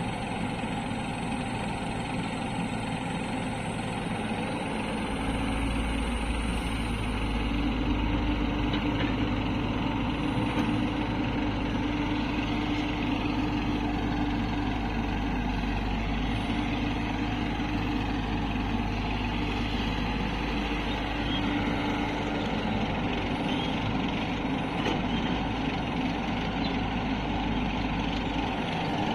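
Heavy diesel engines of an excavator and tractors running steadily, with the low rumble growing louder about five seconds in as the engine comes under more load.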